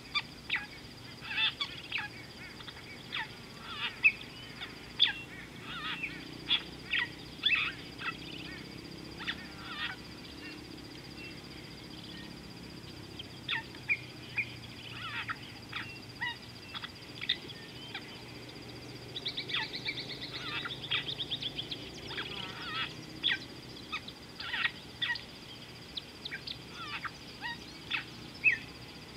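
Birds calling from the waterside: many short, sharp calls in irregular runs, with a fast trill about two-thirds of the way through. A thin, steady high-pitched tone runs underneath.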